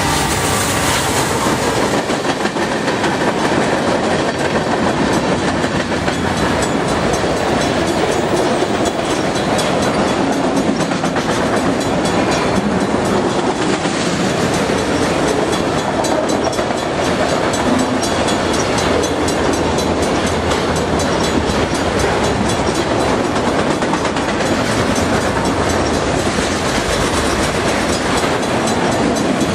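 Freight train rolling past at speed: a steady roar of steel wheels on rail with repeated clickety-clack from the cars. The tail of a locomotive horn fades out in the first second.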